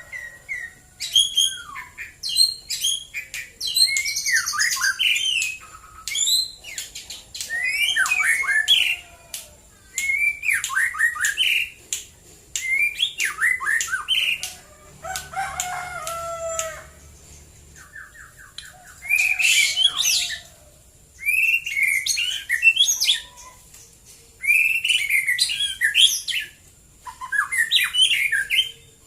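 White-rumped shama (murai batu) singing: a long run of varied phrases of rapid whistles, trills and harsh chattering notes, each lasting a second or two, with short pauses between them.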